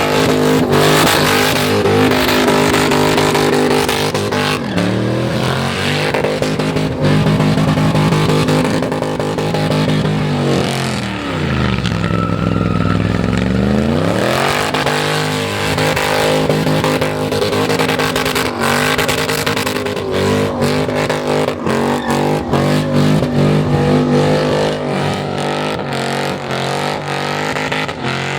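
LS V8 engine held at high revs, running loud and steady. About eleven seconds in the revs fall away sharply and climb straight back up, and in the later part the sound is broken by many short sharp cracks and stutters.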